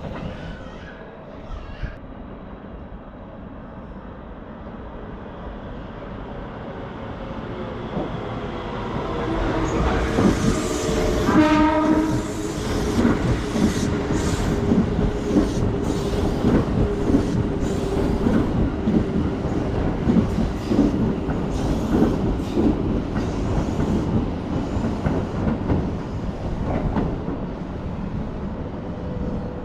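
Keikyu train approaching and passing over the level crossing. Its horn sounds briefly about eleven seconds in, then the wheels clatter over the rail joints for most of the rest.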